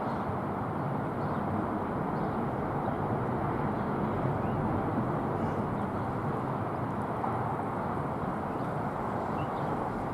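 Steady, even rumble of distant engines, with no rise or fall.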